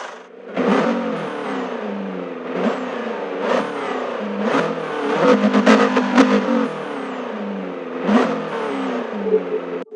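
An engine revving again and again, its pitch falling back after each rev, with sharp cracks in between; it cuts off suddenly near the end.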